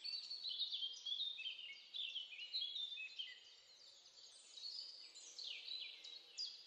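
Faint birdsong: many short, high chirps sliding down in pitch, overlapping one another, thinning out briefly about midway.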